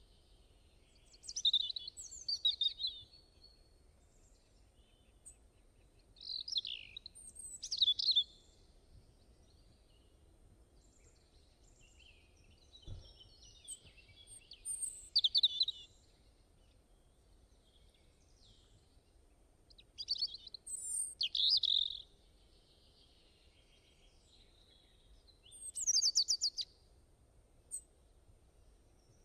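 Songbirds singing in short, quick chirping phrases, one burst every five to seven seconds, over a faint low background hiss.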